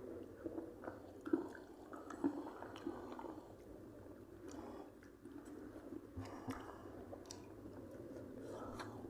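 A person chewing and eating biryani close to the microphone: wet, squishy mouth sounds with many small clicks and smacks.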